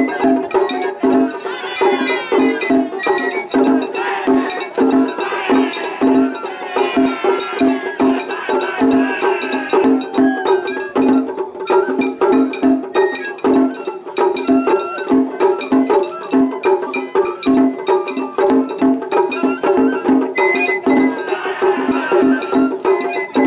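Japanese festival hayashi music: taiko drums beating a fast, steady rhythm under a wavering bamboo-flute melody, with the metallic clang of a small hand gong.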